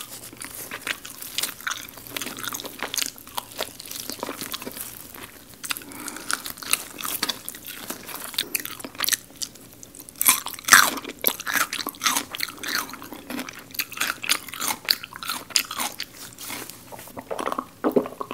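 Close-miked crunching and chewing of crispy garlic fried chicken, as the batter crackles with each bite. The crackles come in irregular bursts and are densest about ten seconds in.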